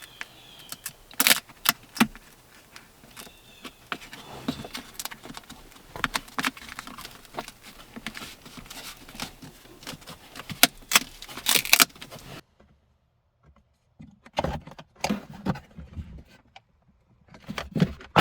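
Irregular clicks, knocks and rustling of parts being handled and fitted into a truck's center console during a fridge install, with a few sharper knocks, dropping out entirely for a moment about twelve seconds in.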